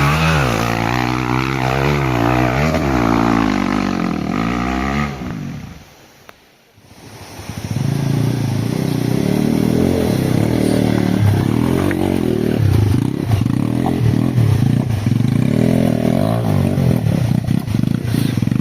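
Hero Xpulse 200 single-cylinder motorcycle engine revving up and down, then after a brief drop-out about six seconds in, running on under load with irregular clattering.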